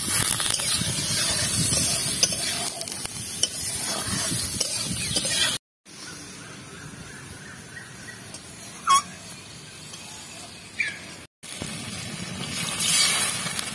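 Star fruit pieces frying in oil in a metal kadai, sizzling, with a metal spatula stirring and scraping the pan. After a cut it is much quieter apart from two short rising chirps, and near the end the pan's contents are bubbling and sizzling again, louder.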